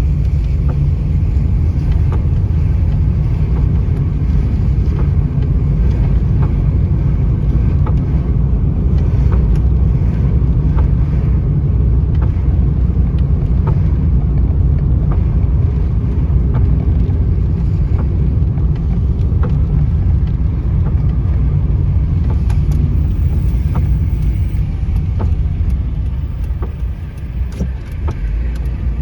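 Steady low rumble of a car on the road, with scattered light ticks above it; the rumble eases briefly near the end.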